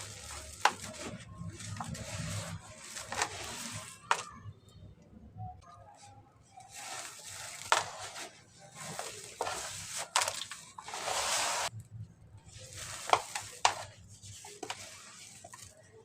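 Soft cement with white grains crumbling and dissolving in water: irregular crackling and fizzing with sharp clicks scattered throughout and a longer hiss about eleven seconds in.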